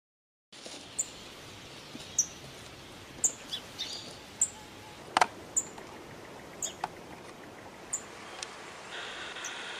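Woodland ambience with a bird repeating a short, high chirp about once a second. A sharp click comes about five seconds in, and a short steady buzzy tone near the end.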